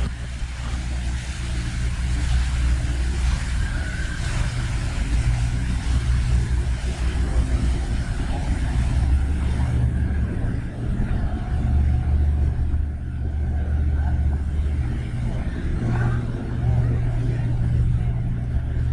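Steady low engine rumble from a motor running close by, holding an even drone throughout.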